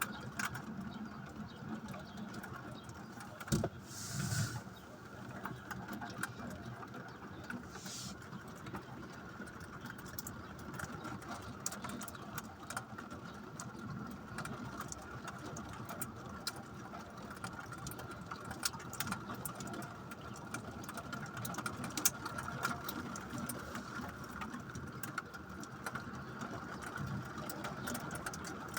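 Rain mixed with small hail pattering, heard as many sharp irregular ticks of drops and hailstones striking a hard surface, over a steady high hum.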